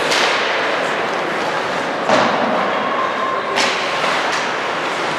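A basketball thudding on a hardwood gym floor, with a few sharp impacts over a steady background of gym noise.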